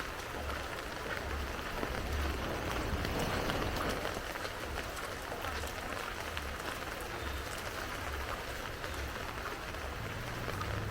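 Heavy rain falling steadily, a dense hiss with many small drop ticks as it hits nearby surfaces, and an uneven low rumble underneath.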